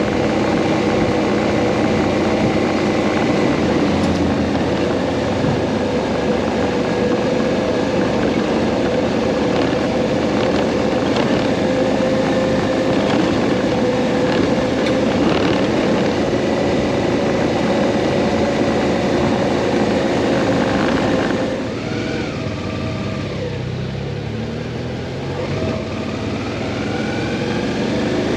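Motorcycle riding at a steady speed, with engine drone and wind noise. About 21 seconds in it eases off and goes quieter, then the engine note climbs again as it speeds back up.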